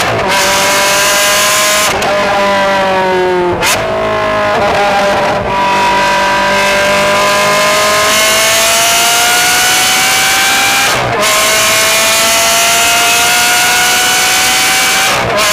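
Ferrari 360 Modena's V8 through an aftermarket exhaust, heard from the rear of the car while it is driven. The revs climb slowly and drop sharply at gear changes, about five times.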